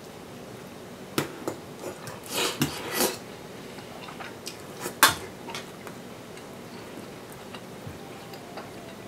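Cutlery and dishes clinking, with a few short scrapes and scattered sharp clicks, the loudest about five seconds in.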